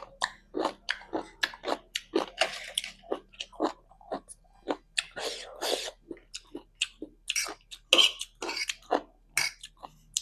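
Close chewing of spicy instant noodles: a fast, irregular run of short mouth clicks and smacks.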